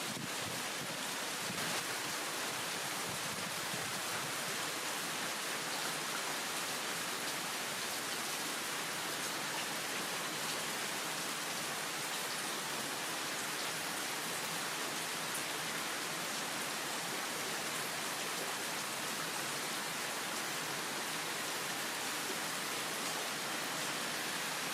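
Heavy rain falling steadily: a downpour heard as an even, unbroken hiss.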